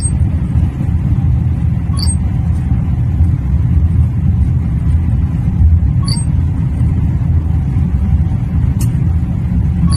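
Vande Bharat Express train running, heard as a loud, steady low rumble, with faint short high chirps every few seconds.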